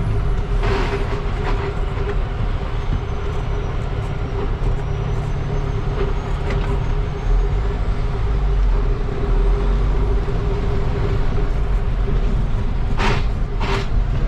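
Semi-truck engine running steadily, heard from inside the cab as a low rumble with a steady hum. There is a short burst of noise about a second in and two more close together near the end.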